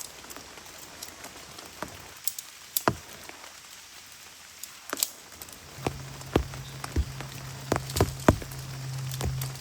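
Rain falling, with large drops striking a surface close by in irregular sharp taps over a faint steady patter. A low steady hum comes in about six seconds in.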